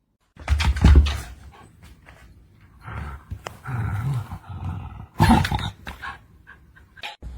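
A pet animal's vocal noises in irregular outbursts, loudest about a second in and again around five seconds.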